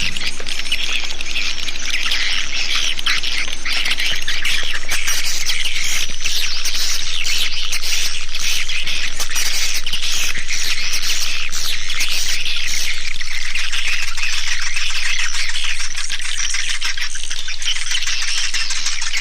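Swiftlet lure call: a dense, unbroken mass of high twittering chirps from a recording of many swiftlets, the kind played to draw the birds into a nesting house.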